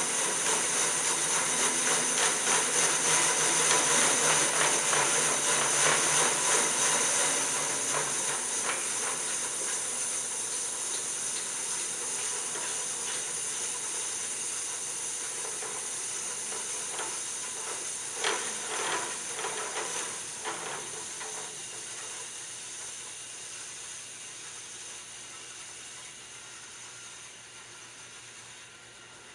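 Greenlee No. 410 vertical band saw running with a steady high hiss and whine, getting gradually quieter; a few clicks about eighteen to twenty seconds in.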